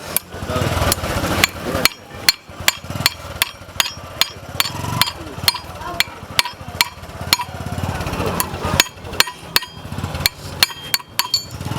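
Hammer striking metal on a motorcycle chain, as in knocking out a link pin, in a steady series of sharp ringing blows, about two to three a second.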